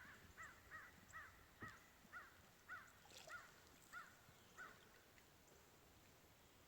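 A bird calling faintly in a series of about ten short rising-and-falling notes, about two a second and slowing a little, stopping after nearly five seconds.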